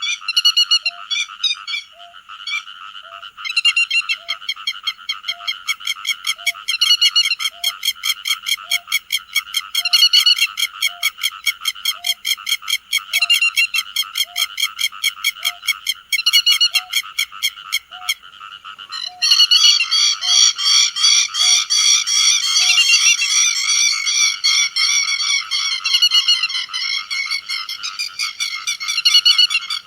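Grey-headed lapwings' flock call, sharp calls repeated in quick rhythmic series. About 19 seconds in, the calls thicken into a denser, louder chorus.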